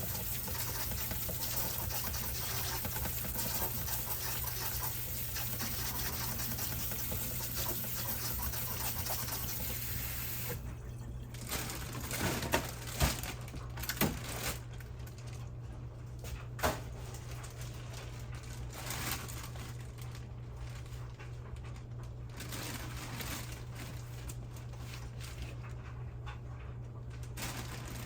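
Water running from a kitchen tap for about ten seconds, then shutting off, followed by a few sharp knocks.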